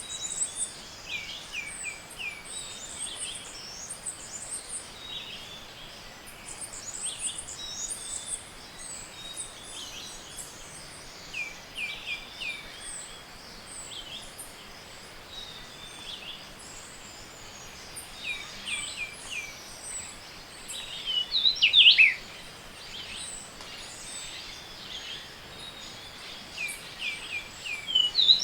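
Chorus of many tropical forest birds: overlapping short chirps, trills and whistles over a steady background hiss. A louder, sharper phrase of quick falling notes stands out about three quarters of the way through and again at the very end.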